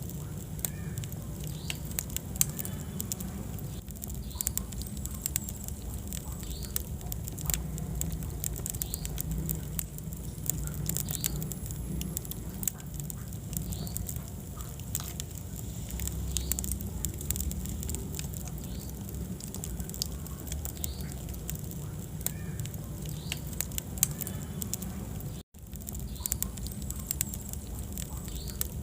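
Wood fire burning in a fireplace: constant crackling and sharp pops over a low rumble of flames, with occasional short high squeaks. The sound cuts out for a split second near the end.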